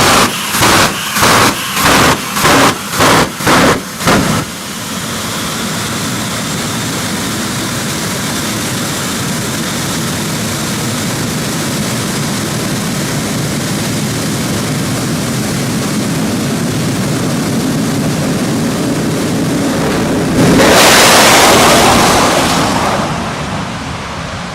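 Jet funny car's turbine engine. It first gives a string of loud rhythmic pulses, about two a second, for the first four seconds. Then it runs with a steady, slowly building jet noise. About twenty seconds in it surges much louder for a couple of seconds, then fades away.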